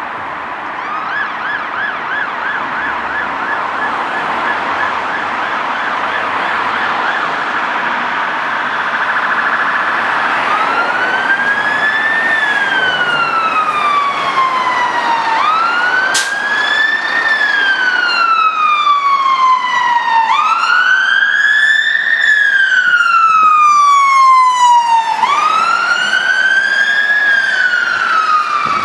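Fire engine siren on an Oxfordshire Fire & Rescue Service Volvo FL rescue pump. It sounds a fast yelp of about four warbles a second, then switches at about ten seconds in to a slow wail rising and falling about every five seconds, growing louder as the appliance approaches.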